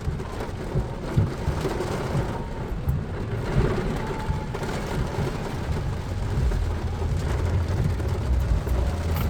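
Heavy rain falling on a car, heard from inside the cabin, over a steady low rumble.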